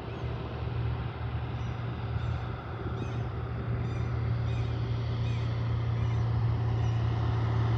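Light propeller aircraft's piston engine running at a steady pitch, growing slowly louder as the plane takes off.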